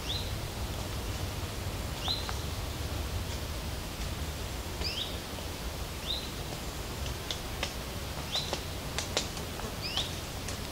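A bird calling: a short rising call repeated about every two seconds, over a steady low background noise, with a few sharp ticks in the second half.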